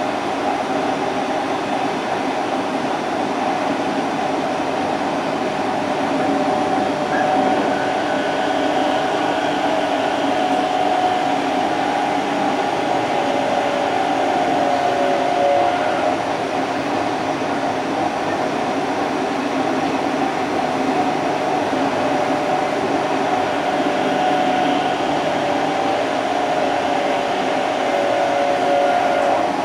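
Odakyu 30000-series EXE Romancecar running, heard from the vestibule deck: a steady rumble of wheels and running gear with a tone that wavers in pitch now and then.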